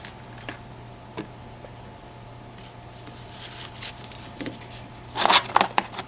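Small metal lock parts and picking tools clinking and tapping as they are handled, a few scattered clicks and then a quick cluster of louder clicks near the end.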